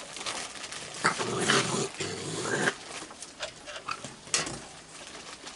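Raccoons growling and squabbling over food in short, irregular bursts, busiest between about one and three seconds in.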